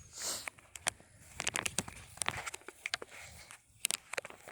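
Irregular footsteps with scattered sharp clicks and crackles, over a faint low rumble.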